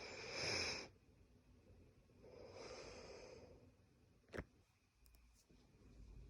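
Two breathy hisses of air, each about a second long, followed a little later by a single sharp click.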